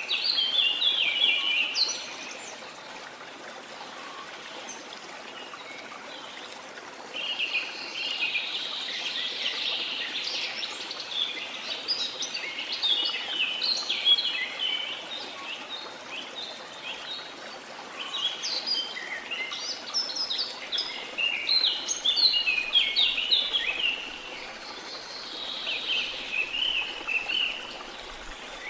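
Birds singing in bouts of quick chirping notes over the steady rush of a waterfall. The singing pauses for a few seconds near the start, then returns in several long runs.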